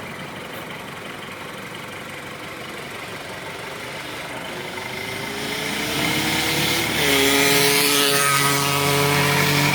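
Diesel engine of heavy equipment at a sand-loading site growing louder as it comes closer, its note rising over several seconds, then settling about seven seconds in to a steady, loud running note.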